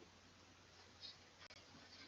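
Near silence: faint room tone with a steady low hum and a couple of faint clicks about a second in.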